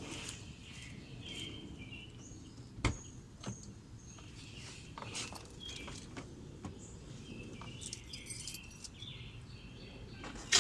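Faint bird chirps, with a few scattered clicks and taps, the loudest about three seconds in.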